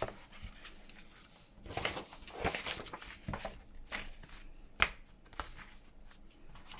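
Paper pages and card inserts of a handmade junk journal being handled: soft rustling and light taps, with one sharp click about five seconds in.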